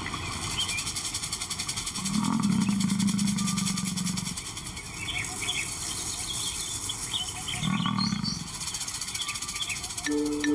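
Lion growling low twice: a long growl about two seconds in and a shorter one near eight seconds, each with a fast pulsing rumble. Small high chirps in the background.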